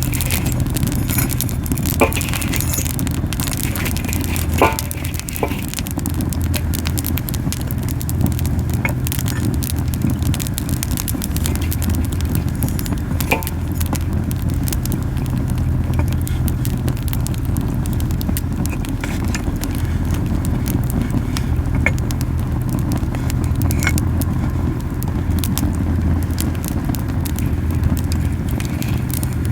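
Camellia wood burning hard in a campfire: a steady low whooshing rumble from flames running too hot, with scattered sharp crackles and pops.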